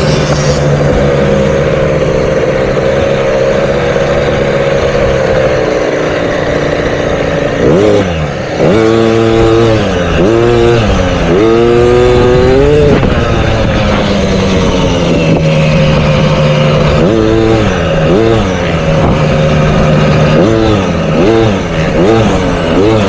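Motocross dirt bike engines on a track. A steady engine drone runs for several seconds; then, about eight seconds in, an engine rises and falls in pitch over and over as the throttle opens and closes, and this happens again in the last third.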